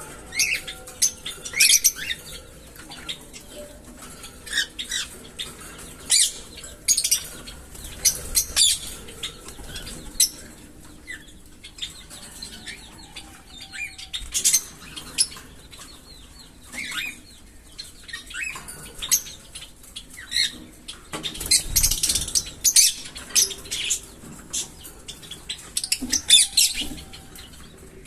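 Small pet parrots chirping: many short, high chirps scattered unevenly, with a louder burst of rustling and chirping about three quarters of the way through.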